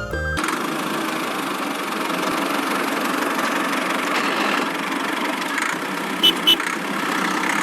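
A small motor of a DIY miniature construction machine starts about half a second in and runs steadily with an even, whirring noise. Two brief clicks come about six seconds in.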